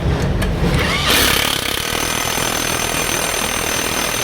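Impact wrench hammering as it tightens the rear wheel's axle nut on an Ola S1 Pro scooter after a bearing replacement. The hammering turns harsher about a second in.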